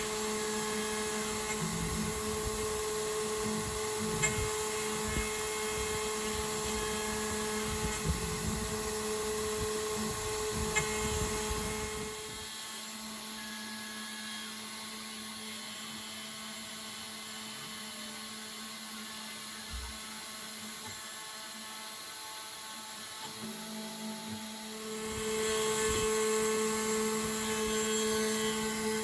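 Home-made CNC router spindle running with a steady whine while its end mill makes a finishing pass on a block of 6082-T6 aluminium. The rough cutting noise drops away a little under halfway through and the router runs quieter, then the cutting comes back louder near the end.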